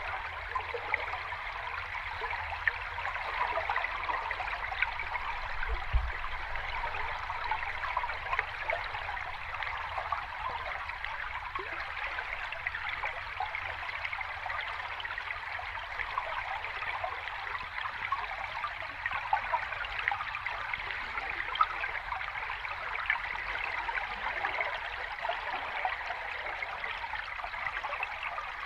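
Sea water washing steadily, a continuous rushing fizz with many small trickling splashes and no distinct surges of breaking waves. A brief low thump about six seconds in.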